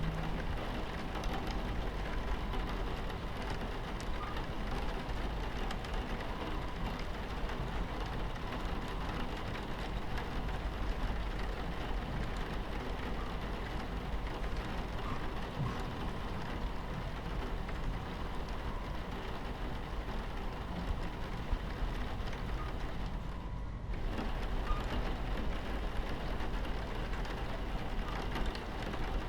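Rain on a train carriage window over the steady low rumble of the train running on its tracks. The sound briefly thins out about 24 seconds in.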